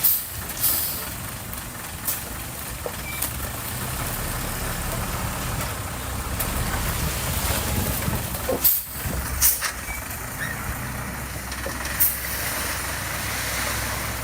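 Diesel engine of heavy earthmoving machinery running steadily, with several short, sharp noises. The loudest is a pair about nine seconds in.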